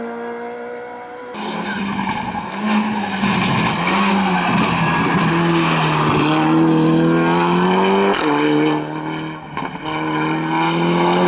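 Rally car engine at high revs: the car comes in loudly, its tyres scrubbing or squealing through a corner, then accelerates hard, the engine note climbing and dropping back at each upshift.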